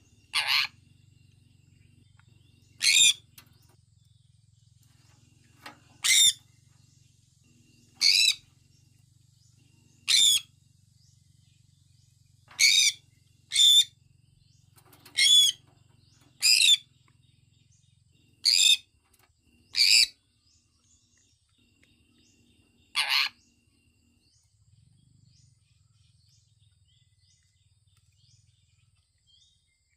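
Sun conure giving about a dozen short, sharp calls, one every one to three seconds, then falling silent for the last several seconds.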